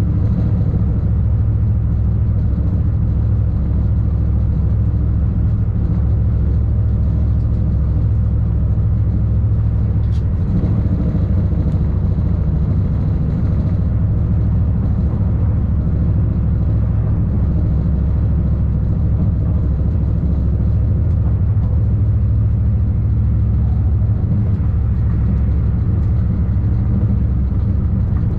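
Tilting electric InterCity train running at about 120 km/h, heard from the driver's cab: a steady, even rumble of wheels on rails and running gear.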